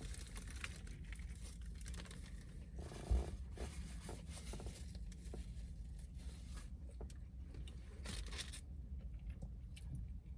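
Quiet eating sounds of a buffalo chicken tender sub: chewing, with sandwich paper rustling and crinkling, small scattered clicks, a soft thump about three seconds in and a longer rustle near eight seconds.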